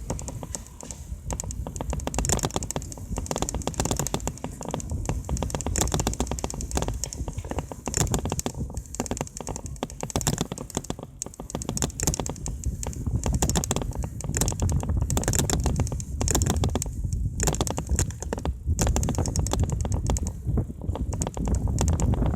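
Mountain bike rattling and clicking steadily as it rides over the road, with a low wind rumble on the microphone that grows louder near the end.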